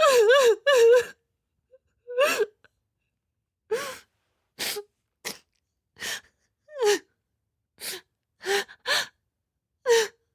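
A person crying in short, broken sobs: about a dozen quick gasping, whimpering cries, many falling in pitch, with a quick cluster of them at the start and then roughly one a second, each cut off to silence.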